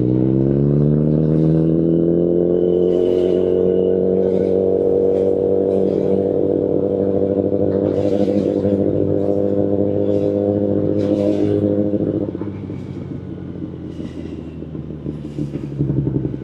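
Kawasaki Ninja ZX-10RR's inline-four engine through an Akrapovic carbon full-system exhaust, revs rising under acceleration for about four seconds, then holding steady. About twelve seconds in the throttle closes and the engine drops to a lower, quieter note.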